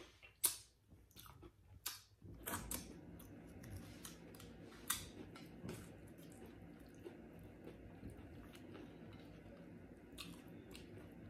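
Tortilla chips loaded with taco dip being bitten and chewed, with scattered sharp crunches.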